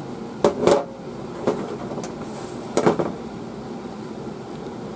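A few short knocks and clatters of hard objects being handled, two close together about half a second in, one about a second and a half in and one near three seconds, over a steady background hum.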